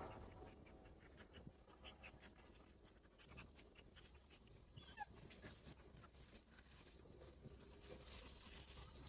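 A Belgian Malinois panting faintly, with a short rising squeak about five seconds in.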